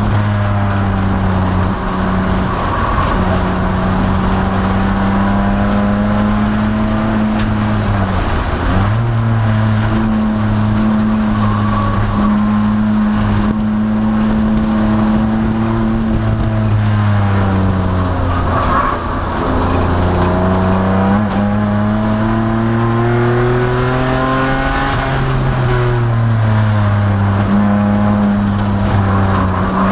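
2002 Nissan Maxima's 3.5-litre V6 running hard on a race track. It holds high revs, then falls in pitch and climbs back three times, about a third of the way in, past the middle, and near the end: braking or lifting into corners, then accelerating out.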